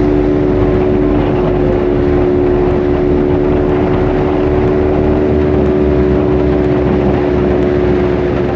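Motorcycle engine running at a steady pace with no revving, under a constant rush of wind and road noise.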